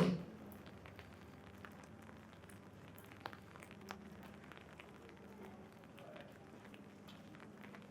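Rain falling on an umbrella, a steady light hiss with scattered drop ticks. A brief louder knock right at the start.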